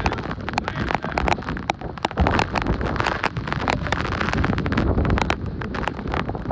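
Hurricane-force wind gusting and buffeting the microphone, with many sharp crackles and knocks through the roar.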